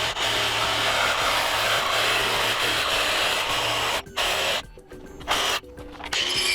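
Battery-powered Ryobi power tool cutting through a metal pipe. It runs steadily for about four seconds, stops and restarts in two short bursts, then runs again near the end.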